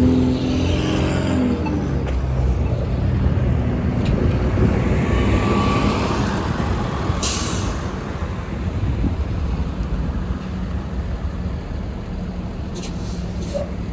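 City transit bus traffic. A bus engine's note fades away over the first second or two, a short sharp air-brake hiss comes about seven seconds in, and a diesel engine runs at a steady low idle after that.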